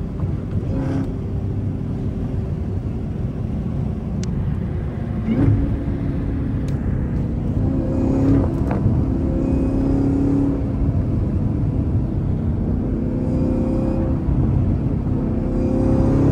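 Chevrolet Camaro ZL1 1LE's supercharged V8 pulling under load, heard from inside the cabin, its note climbing slowly with the supercharger whine in it. There are a few sharp clicks partway through.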